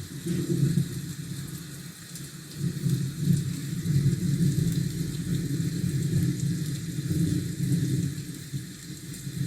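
Rain falling, with a low, uneven rumble underneath, like city traffic or distant thunder.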